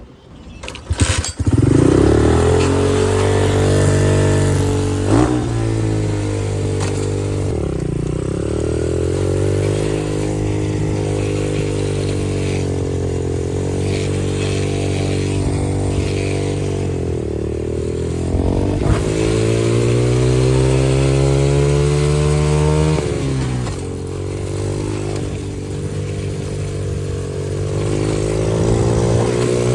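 Xpro 125cc dirt bike's single-cylinder four-stroke engine running under a rider, coming in loud about a second in after a few clicks. Its pitch rises and falls repeatedly as the throttle opens and closes.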